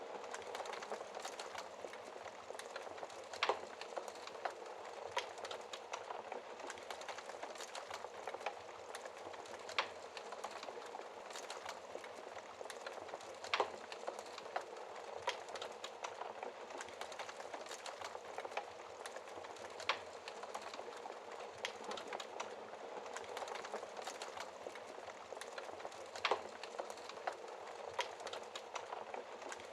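Wood fire crackling in a fireplace: a steady soft hiss with frequent small crackles and a few louder sharp pops several seconds apart.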